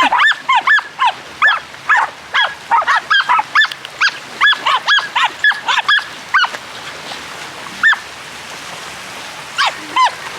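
A dog yelping in quick, high-pitched yips, several a second. The yips thin out to a single one about two thirds of the way through, then start again near the end.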